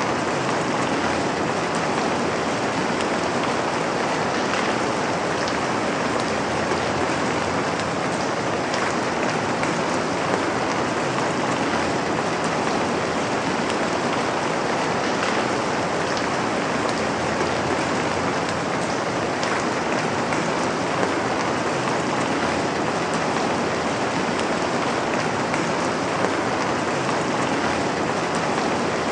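Steady rain falling and pattering on a surface, an even hiss dotted with small drop ticks.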